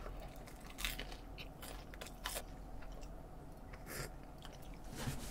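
Close-up chewing of a bite of crusty ciabatta bread with chicken: faint, irregular crunches and mouth sounds.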